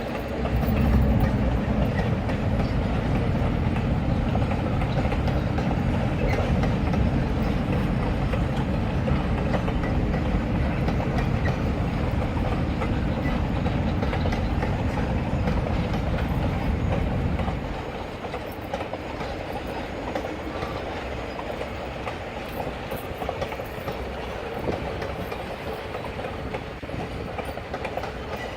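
Excursion passenger train led by GSMR locomotive 1751 rolling past on the rails. A heavy low rumble drops away suddenly about two-thirds of the way through, leaving a lighter, steady rolling noise.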